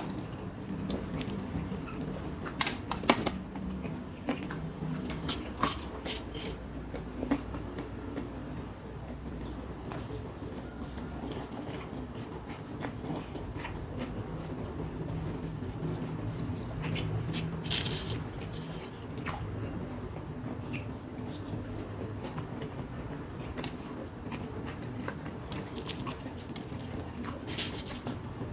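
Close-up chewing and biting of fried snacks, with scattered short crisp clicks over continuous mouth noise.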